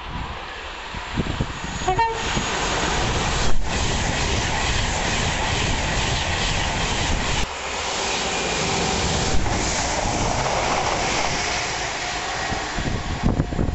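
Virgin Class 390 Pendolino electric train passing through at speed, a brief horn note sounding about two seconds in, then a steady rush of wheels on rail and air.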